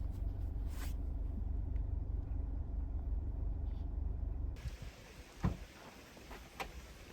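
A steady low mechanical hum that cuts off abruptly about four and a half seconds in, followed by a single knock and a few faint clicks.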